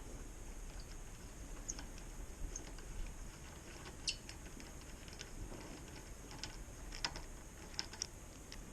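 Quiet, irregular light clicks and taps of small hardware being handled while fitting mini bike handlebars: clamps, bolts and cables.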